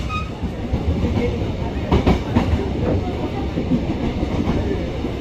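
Baekdudaegan Gorge Train (V-Train) running on the rails: a steady low rumble of wheels on track, with a couple of clacks about two seconds in.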